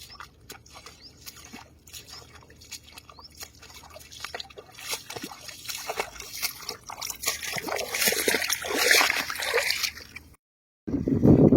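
Shallow water sloshing and trickling, with many small clicks and light splashes that grow louder toward the end, then stop abruptly.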